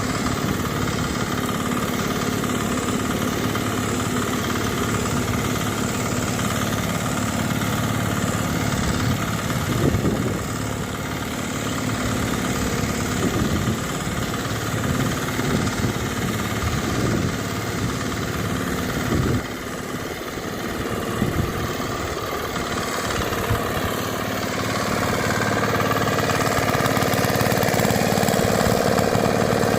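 The 5-horsepower engine of a Bharat nano tractor (mini tractor or power weeder) running steadily, with scattered knocks and clatter through the middle. Over the last few seconds it runs a little louder, with a higher tone.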